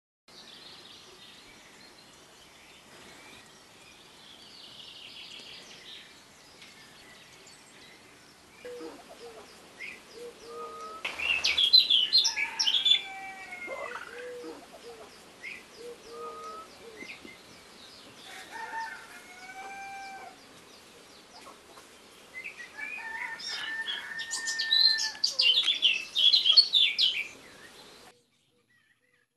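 Birds chirping and calling, with chicken calls among them, in short rising and falling notes; the calls grow busier and louder twice, a little before halfway and again near the end, then stop abruptly.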